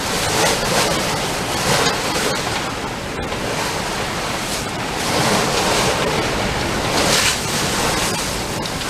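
Sea water rushing and splashing along the hull of a sailboat heeled over and beating close-hauled, swelling in uneven surges, with wind on the microphone.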